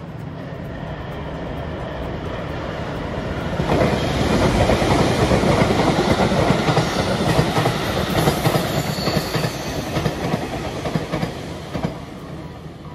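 A train passing by on the rails: the noise swells over the first few seconds, stays loud for about seven seconds, then fades near the end.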